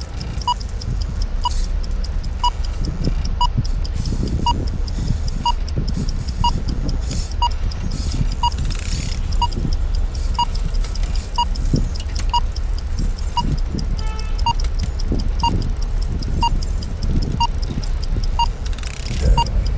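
Phone countdown timer ticking once a second, a short sharp tick, over a steady low background rumble.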